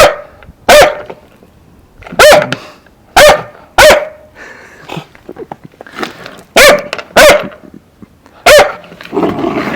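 Newfoundland puppy barking in play: about eight short, loud barks in uneven runs, some in quick pairs.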